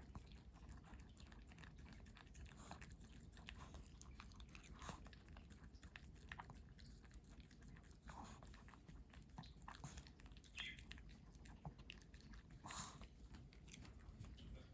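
Faint, irregular crunching and chewing as a Pomeranian eats a frozen homemade meat treat.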